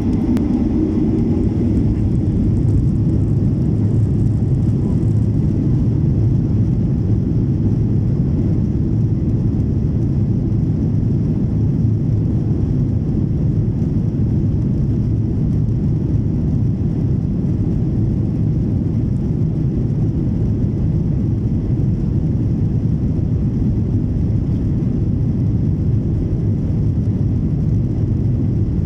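Boeing 737-800's CFM56-7B turbofan engines at takeoff power, a loud, steady, deep rumble that swells slightly in the first second and then holds level.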